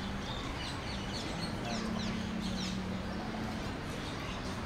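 Birds chirping in a quick series of short, falling high chirps, clustered about a second to two and a half seconds in, over a steady low hum.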